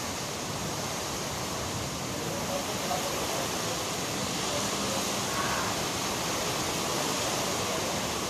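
Steady rushing noise of a storm's strong wind and rain.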